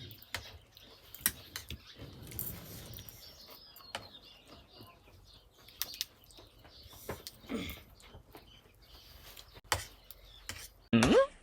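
Eating sounds from a bowl of Korean instant ramen: scattered small clicks and soft noises. Near the end a short, loud voiced sound bends up and down in pitch.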